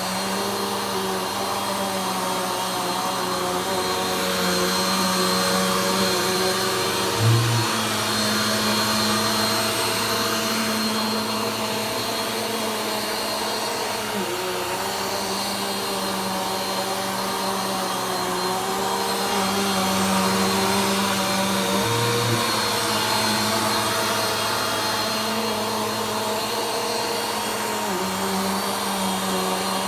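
Vacuum cleaner running steadily during slow vacuuming passes, its motor hum shifting slightly in pitch every several seconds. There is a brief low bump about seven seconds in and another near two-thirds of the way through.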